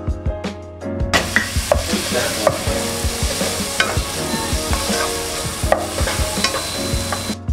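Chopped tomatoes sizzling as they hit the hot oil of a frying masala in a nonstick pot, stirred with a wooden spatula that knocks and scrapes against the pan. Background music plays for about the first second, and the sizzling stops suddenly just before the end as the music comes back.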